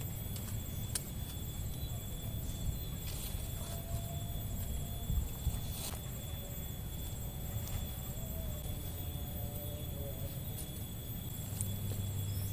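Outdoor forest ambience: a steady low wind rumble with a constant high insect drone, broken by a few sharp clicks or knocks.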